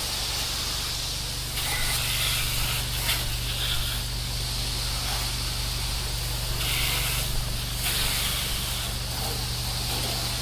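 Soft wash spray hissing from a hose nozzle as a screen enclosure is soaked with sodium hypochlorite solution, the spray getting brighter and louder in several spells. Under it runs the steady hum of the soft wash pump.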